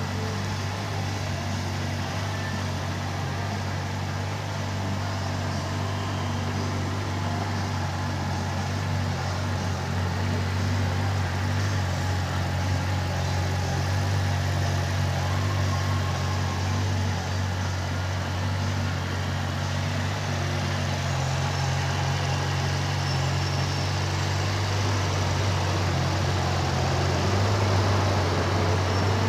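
2008 Yamaha R6's 600 cc inline-four engine idling steadily, growing a little louder near the end.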